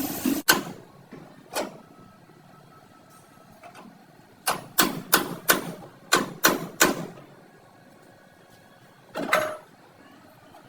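Hammer blows on car-body sheet metal during panel beating: two single strikes, then a quick run of about seven blows at roughly three a second, and one more ringing strike near the end.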